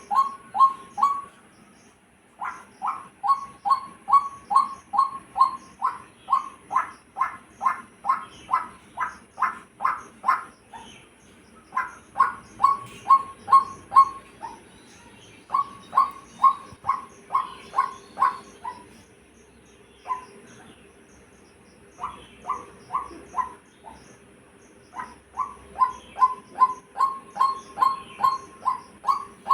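A bird calling in long runs of short, evenly spaced notes, about two or three a second, with short pauses between the runs.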